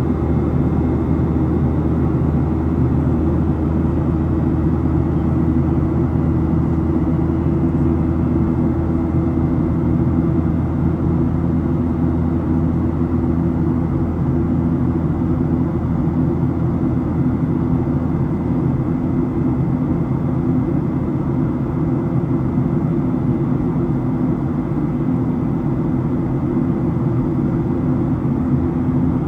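Steady cabin noise inside a Boeing 737-700: a constant low drone of its CFM56-7B turbofan engines and airflow, unchanging throughout.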